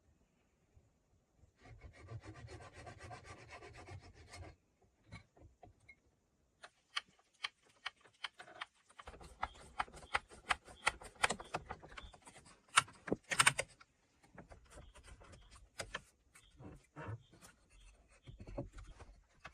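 Wood being worked by hand. A fast rasping, rubbing stroke runs for about three seconds near the start, then comes a long run of irregular wooden knocks, taps and scrapes. The loudest are two sharp strikes about two-thirds of the way through.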